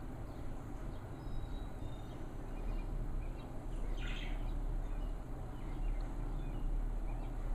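Outdoor ambience: a steady low rumble, with a bird chirping briefly about four seconds in and a few fainter chirps.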